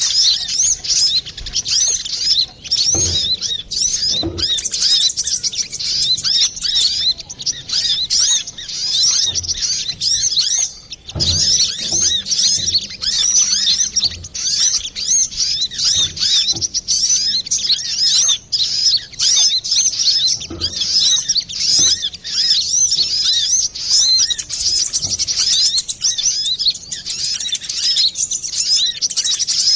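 Brown-throated sunbird (kolibri kelapa) calling without pause in a rapid, busy chatter of high chirps. This is a lure recording of the kind used to draw in other sunbirds or set caged ones singing.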